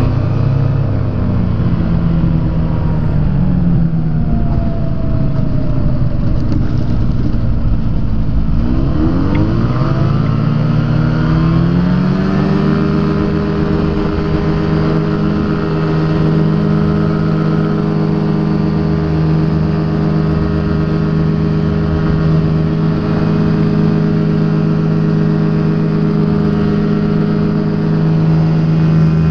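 Rotax engine of a Quad City Challenger ultralight, at low power at first with air noise. Over two or three seconds, starting about nine seconds in, it is throttled up with a rising pitch. It then runs steadily at full power, as for the takeoff roll and climb of a touch-and-go.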